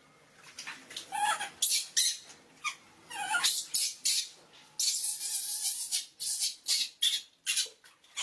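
Pet monkey being bathed: irregular bursts of splashing water, with a longer splash about five seconds in, and a few short, high squeaks.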